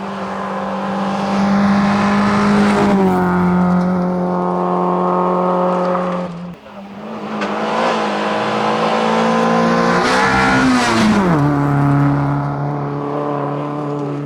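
Fiat Punto hillclimb car's engine running hard at high revs as it accelerates up the course. The pitch drops at gear changes about 3 s, 6.5 s and 11 s in, with a brief dip in loudness at the middle shift.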